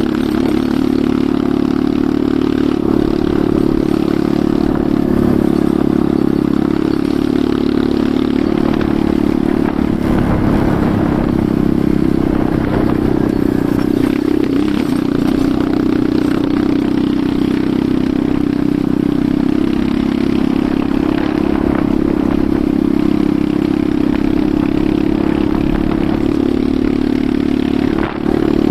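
Enduro motorcycle engine running steadily while under way, with clattering from the bike. The engine note holds fairly even, with a brief drop in level near the end.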